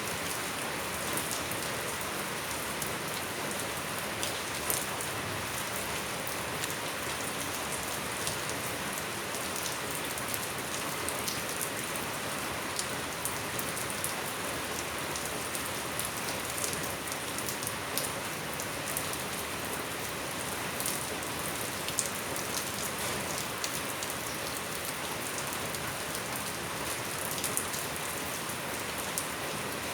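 Steady rain falling and pattering on surfaces, with many separate drops ticking sharply.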